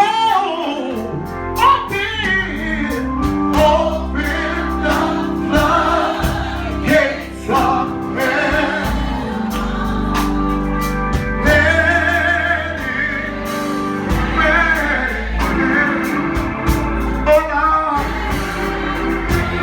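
Live gospel church music: a voice singing with vibrato over sustained organ and bass chords, with frequent drum hits.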